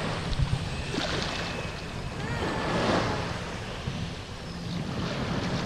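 Water splashing and lapping around a paddled kayak, with wind buffeting the microphone. The splashing swells once about three seconds in.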